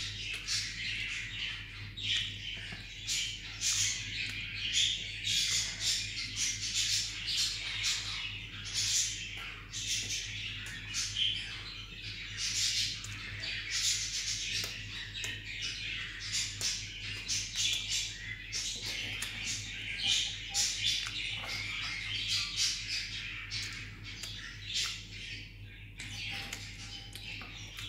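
A crowd of birds chirping continuously in many quick short calls, over a low steady hum.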